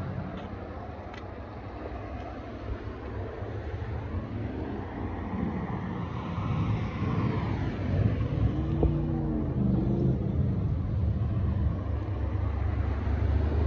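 A car engine running close by, its pitch rising and falling and getting louder over the second half, with wind on the microphone.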